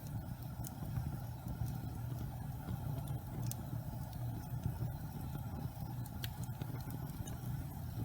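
Wood fire burning in a fireplace: a steady low rumble of flames with scattered sharp crackles and pops every second or two.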